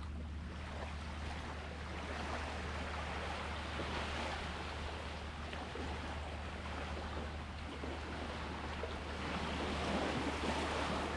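Sea waves washing in, a noisy wash of surf that swells and ebbs twice, over a steady low rumble.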